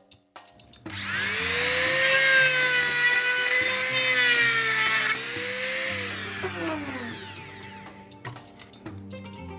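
Electric power tool working on the steel blade: it starts abruptly about a second in, runs with a high whining, wavering pitch, then winds down with a falling pitch and fades near the end.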